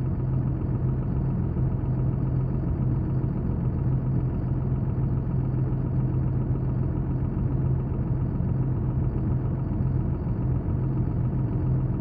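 An engine running steadily at idle, a low even drone with no change in speed.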